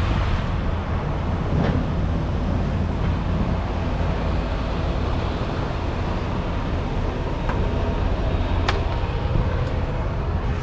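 Semi-truck's diesel engine running with a steady low rumble, heard from inside the cab, with a few faint clicks.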